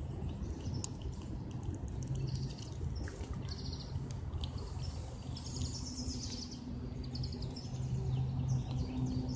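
Small birds chirping, with short high trilled phrases now and then, the longest about halfway through, over a low steady hum.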